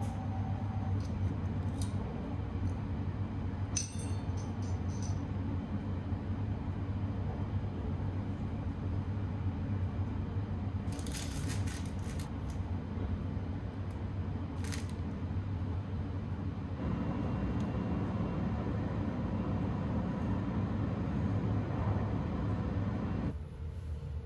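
Steady low running rumble of the sleeper train, heard from inside the car, with a few light clicks in the first seconds. A plastic snack bag crinkles about eleven seconds in and again briefly about fifteen seconds in.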